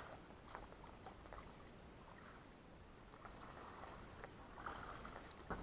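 Faint paddling on a river: soft swishes of a paddle through the water, with a few light knocks against the small boat.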